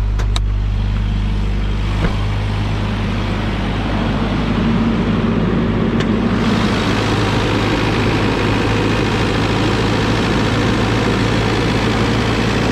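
1990 Toyota 4Runner's 22R-E four-cylinder engine idling steadily just after starting, with a few sharp clicks. A louder hiss joins from about six seconds in. The engine has a light tick, typical of the 22R-E, which the owner plans to cure by checking the valve lash.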